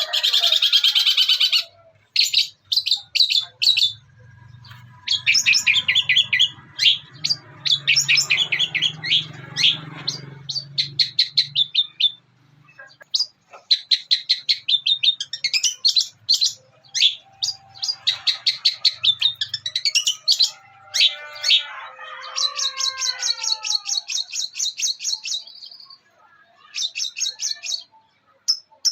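Long-tailed shrike (cendet) singing fast runs of sharp, high chattering notes in bursts of a second or two, mimicking the calls of fighting house sparrows.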